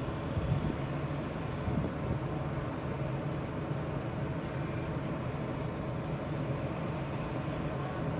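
Passenger coaches of a train rolling past close by: a steady rumble of wheels on the track with a low droning note underneath.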